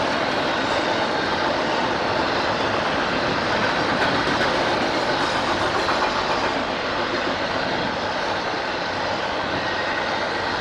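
A train rolling past on the main line: steady noise of steel wheels running over the rails, with faint irregular clicks.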